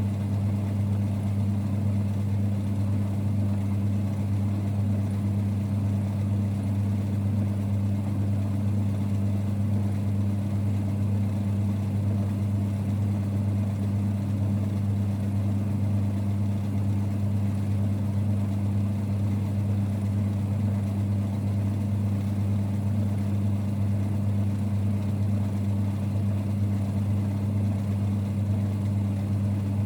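1946 Boxford lathe running steadily with a low, even rumble that holds unchanged throughout.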